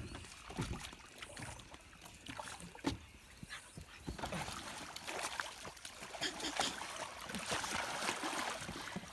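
Water sloshing and splashing against a small boat as a man shifts his weight in it, with scattered knocks on the hull. It grows busier about four seconds in.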